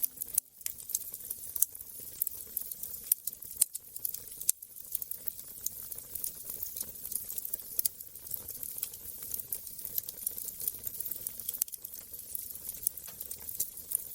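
Wood fire crackling, with a steady run of small irregular snaps and pops over a low hiss.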